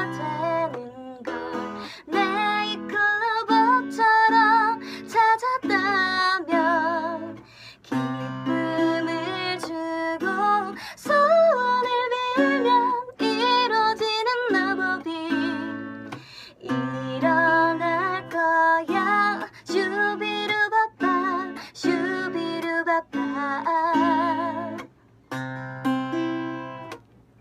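A song: a voice singing a melody with vibrato, over plucked-string accompaniment that sounds like a ukulele.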